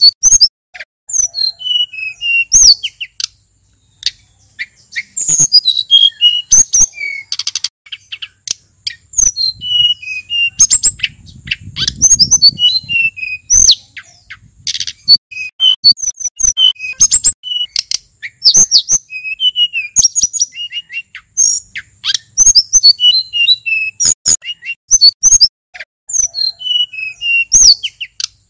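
Male sulingan gunung singing a fast, varied song of sharp chirps and short whistled notes, phrase after phrase with brief gaps. A low rumble briefly sits under the song near the middle.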